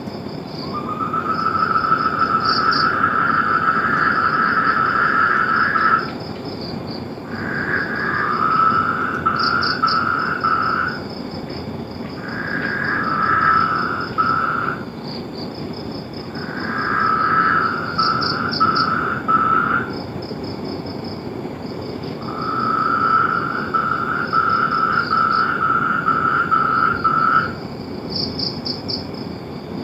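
Animal chorus: pulsed calls repeating in bouts of two to six seconds with short pauses between them, over a continuous higher trill that now and then rattles louder.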